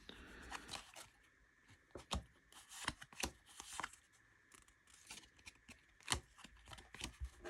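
Baseball trading cards being handled and sorted by hand: irregular soft taps, slides and rustles of card on card as they are flicked through and set down.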